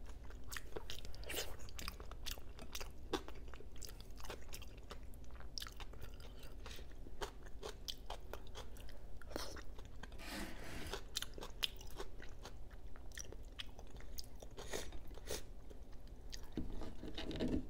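Close-miked chewing of food, with many short wet mouth clicks and smacks.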